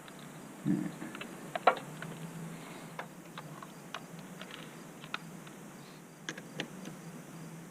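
Hand ratchet tightening the negative battery terminal clamp: irregular metallic clicks about once a second, with a dull knock under a second in and the loudest, sharpest click just after.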